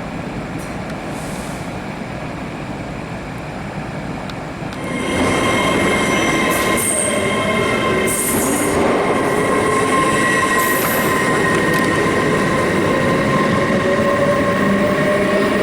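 A train running through the station: a steady rumble that grows louder about five seconds in, with steady high tones and a slowly rising whine over it.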